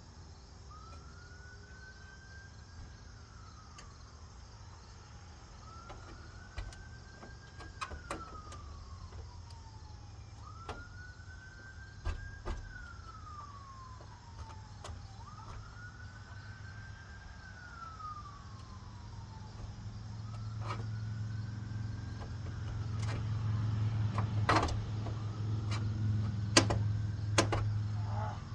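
A siren slowly wailing, rising, holding and falling about every five seconds. A low hum grows louder in the second half, with several sharp knocks near the end.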